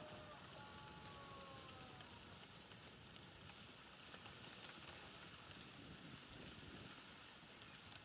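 Faint outdoor ambience: a steady high hiss, with a brief pitched call in the first couple of seconds.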